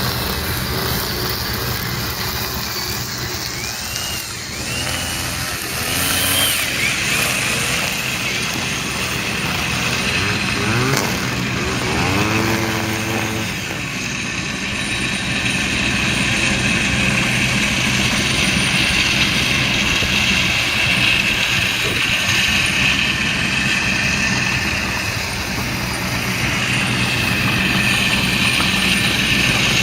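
Radio-controlled Dynam Cessna model plane flying, its electric motor and propeller whining steadily. The pitch bends up and down a few times.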